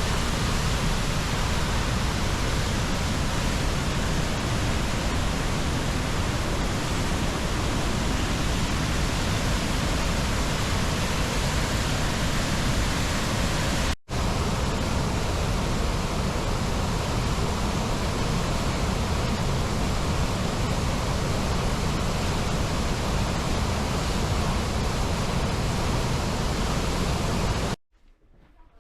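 Athabasca Falls: a large waterfall rushing steadily through its carved rock gorge, a loud, even roar of falling water. There is a momentary break about halfway through, and the sound cuts off abruptly near the end.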